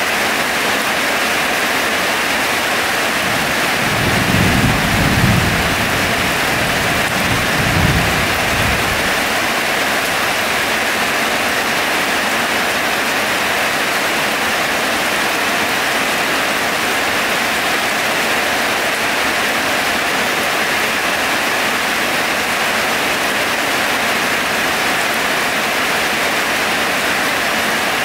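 Heavy rain pouring steadily, with two low rumbles of thunder: one about four seconds in and a shorter one near eight seconds.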